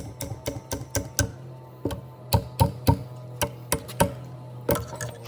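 Sharp, irregular knocks and taps of tools working wood, about two to three a second, over a low steady hum.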